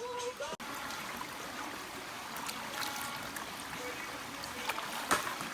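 Steady rush of running water, as of a stream, with a short sharp click near the end.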